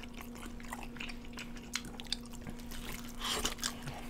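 Two people biting and chewing Korean fried chicken drumsticks in cheese sauce: a scatter of short, sharp crunches and wet clicks, busiest about three seconds in, over a steady low hum.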